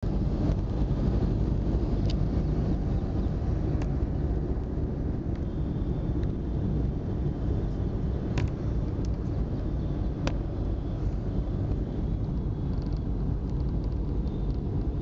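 Road traffic: a steady low rumble of vehicles and engines, with a few short sharp clicks.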